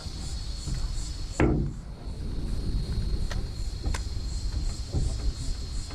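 Insects chirring: a steady high-pitched buzz with a faster pulsing trill above it. A sudden knock comes about one and a half seconds in, the buzz briefly drops away after it, and a few sharp clicks follow.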